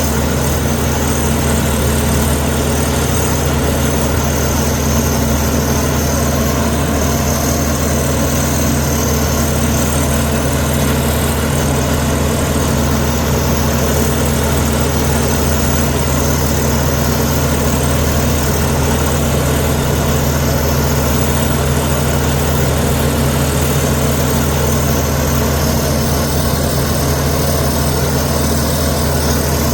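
Heavy construction machine's diesel engine running at a steady speed, a constant low drone with no revving or changes in load.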